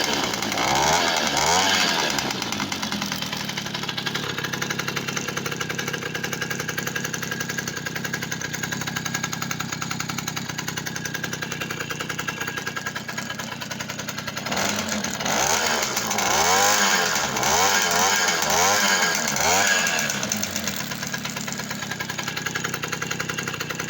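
V50 50 cc two-stroke moped engine with a Honda Dio piston running. It revs up and down briefly at first, idles steadily, then takes about five quick throttle blips about fifteen seconds in before settling back to idle.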